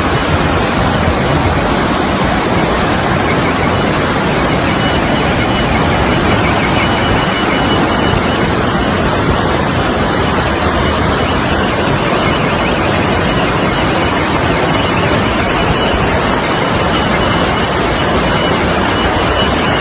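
Torrential rain and rushing floodwater making a loud, steady noise, strong enough to sweep cars along the street.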